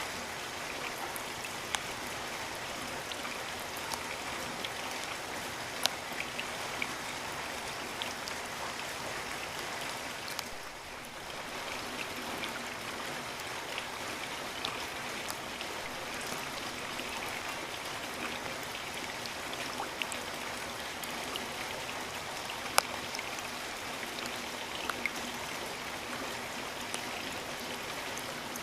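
Steady rain falling, an even hiss with occasional sharper drops striking close by. It softens briefly about ten seconds in.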